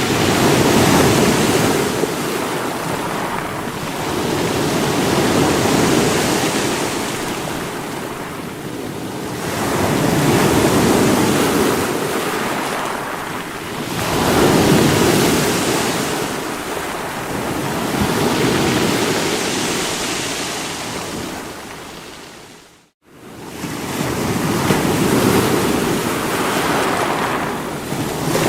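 Sea waves breaking and washing against rocks, the surf swelling and ebbing about every four to five seconds. About four-fifths of the way through, the sound drops out for a moment before the surf resumes.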